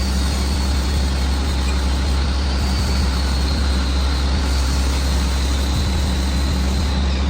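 Metalworking lathe running steadily: a constant low hum under dense machining noise, with a faint steady high whine.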